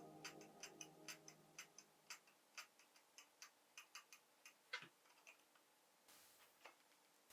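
Faint, irregularly spaced small plastic clicks and ticks, about three a second, from handling and fitting Durock V2 keyboard stabilizer parts. They stop shortly before the end.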